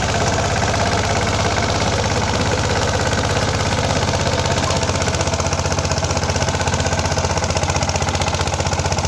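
DK Champion 16 HP mini tractor's engine running steadily, with a rapid, even beat and a low hum.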